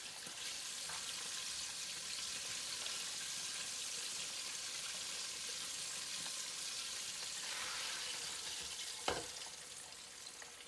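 Chicken wings deep-frying in hot oil, a steady sizzle that eases a little after about seven seconds, with a single knock about nine seconds in.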